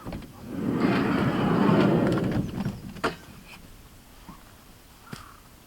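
A vehicle's sliding door running along its track for about two seconds, ending in a sharp latch click.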